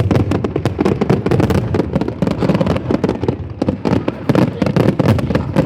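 Fireworks going off in a dense, continuous string of bangs and crackles, many per second.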